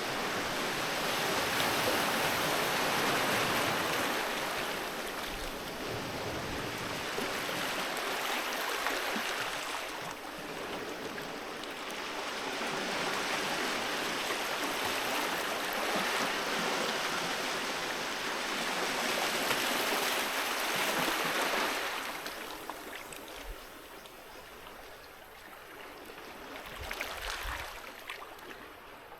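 Sea waves washing onto a beach, the surf rising and easing in long swells, falling quieter for the last several seconds.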